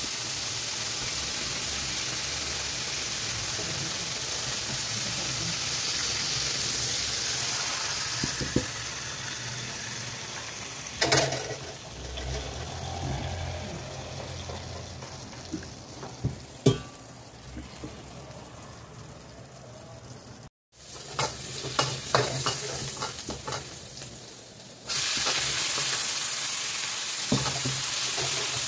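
Hot oil sizzling in a wok as pieces of beef fry and are stirred, with a few sharp clanks of a metal utensil against the pan. The sizzle dies down, then near the end jumps back suddenly and loudly as chopped green vegetables go into the hot oil and are stirred with a metal ladle.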